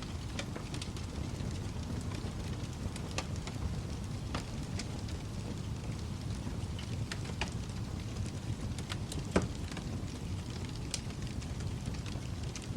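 Wood fire burning in a fireplace, a low steady rumble of flames with scattered sharp crackles and pops, one louder pop about nine seconds in.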